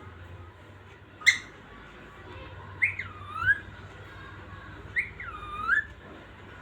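Pet parrot calling: one short, sharp squawk about a second in, then two whistled calls, each sliding down in pitch and back up again.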